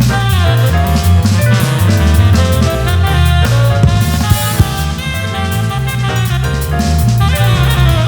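A live band playing an instrumental jazz-funk tune: drum kit with kick and snare, electric bass and keyboards under a moving melody line.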